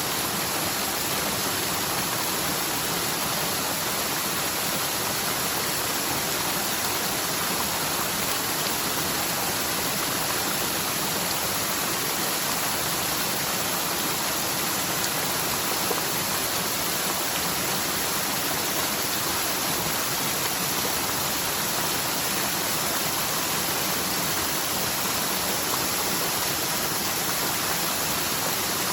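Steady rushing of a forest mountain stream running full after a typhoon's heavy rain, a stream that is normally almost dry.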